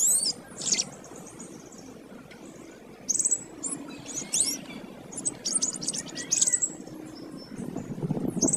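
Domestic canary singing in short, rapid bursts of high chirps and trills with quick up-and-down pitch sweeps, about four phrases with brief pauses between them.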